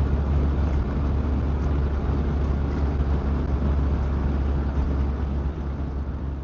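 Steady low rumble of wind and engine noise from a motorcycle on the move, beginning to fade out near the end.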